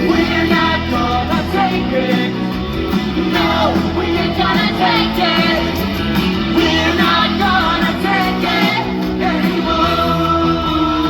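Live rock band playing loudly, with electric guitar, bass and drums, and singing over it.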